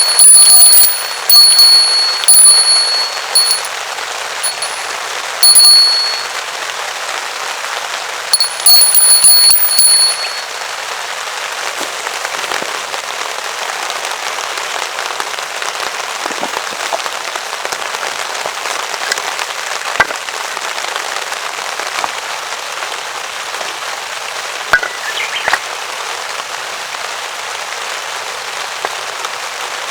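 Heavy rain falling steadily on a tarp overhead. During the first ten seconds, loud high-pitched ringing bursts of about a second each cut in over it several times.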